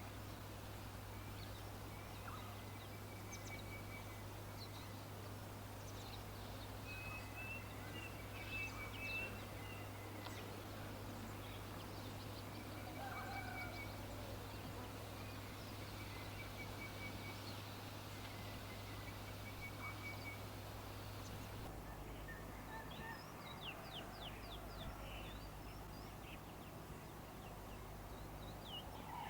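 Wild birds chirping and singing, with short high trills repeating every few seconds over a steady low hum. About two-thirds of the way in, the background changes and a quick run of high chirps follows.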